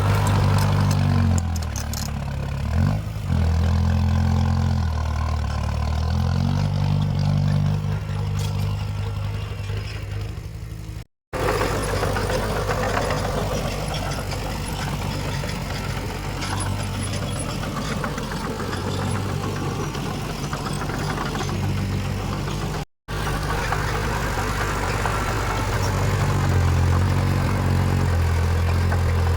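Diesel engine of heavy earthmoving machinery running, its note rising and falling under changing load, in three stretches broken by two brief silences about 11 and 23 seconds in.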